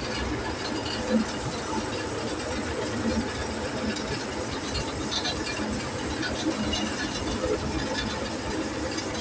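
An engine running steadily, with small irregular rattles and knocks over it.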